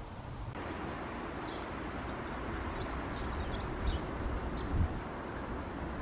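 A bird's high, thin calls: a quick run of short notes about three and a half seconds in and one more near the end, over a steady background hiss.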